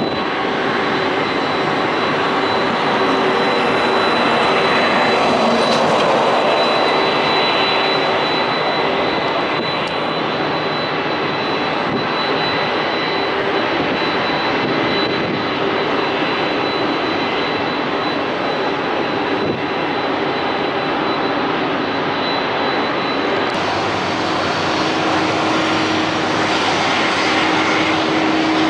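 Airbus A380's four Engine Alliance GP7200 turbofan engines running, a steady loud jet noise with a constant high whine on top and a low hum that drops slightly in pitch near the end.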